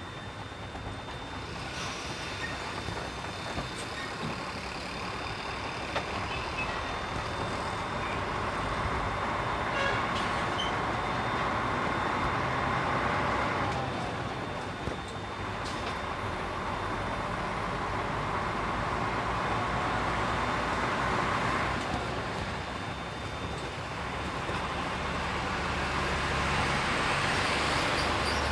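Diesel engine of a container tractor-trailer running under way, with steady road noise that swells and eases as the truck pulls away and changes speed.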